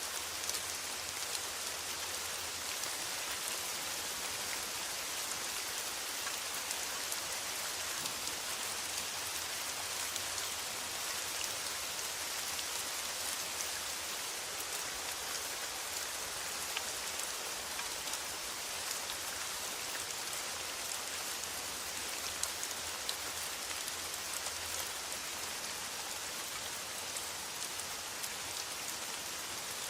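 Steady rain falling on a metal roof, a constant hiss flecked with many small drop ticks.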